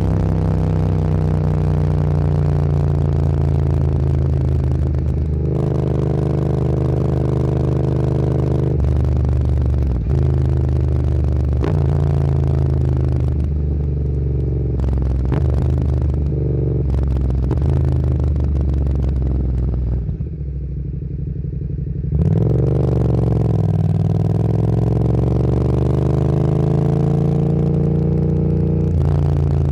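Motorcycle engine running under way, its pitch stepping up and down through gear changes. About two-thirds of the way in it goes quieter for a couple of seconds as the throttle closes, then it accelerates hard with a rising pitch.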